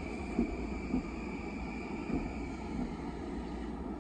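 Long Island Rail Road electric train running past on a far track: a steady rumble of wheels on rail with a high whine that fades away near the end, and three soft clunks in the first half.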